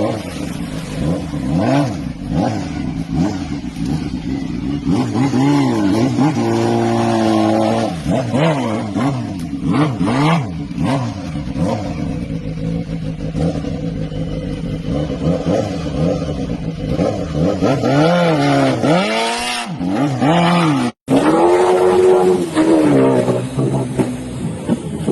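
Motorcycle engines revving up and down over and over, each burst of throttle a rising then falling pitch, with steadier running in between. The sound cuts out abruptly for a moment about three quarters of the way through, then resumes.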